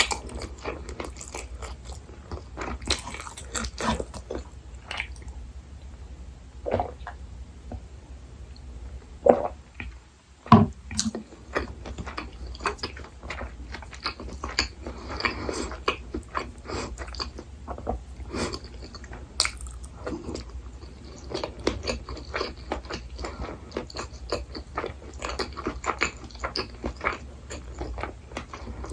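Close-miked ASMR eating: a person chewing and biting soft food, with irregular wet mouth clicks and smacks, and a couple of louder clicks about nine and ten and a half seconds in.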